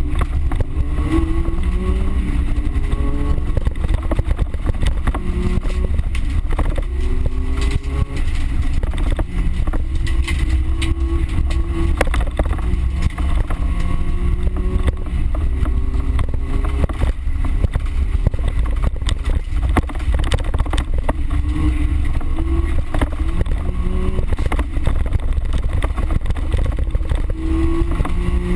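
A car engine heard from inside the cabin during a dirt-course race, repeatedly revving up and dropping back through the gears under a heavy low rumble. Frequent sharp knocks and rattles come from the car on the rough ground.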